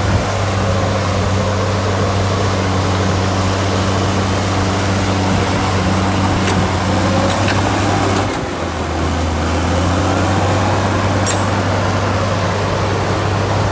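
Heavy-equipment diesel engine running steadily, with a few faint clanks; its hum drops slightly in pitch about eight seconds in.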